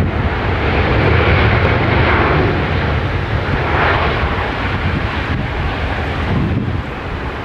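Jet airliner's engines as it passes low on landing, a loud steady rushing roar that builds to its loudest a second or two in and then slowly eases off.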